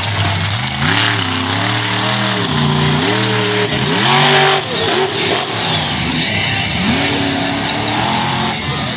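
Haymaker monster truck's engine revving hard and dropping back again and again, the pitch climbing and falling several times, loudest in a full-throttle burst about four seconds in.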